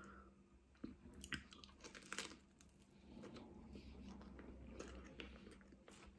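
Faint close-up chewing of a mouthful of spaghetti bolognese and garlic bread, with a few soft crunches and mouth clicks in the first couple of seconds, then quieter steady chewing.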